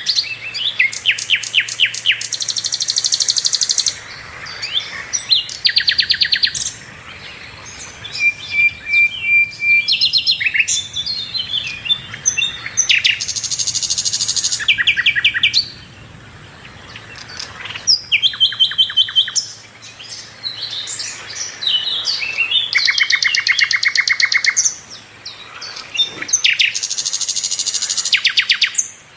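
Sikatan londo flycatcher singing continuously: a varied song of fast chattering trills, rapid runs of repeated high notes and short whistled phrases, with brief pauses between bursts.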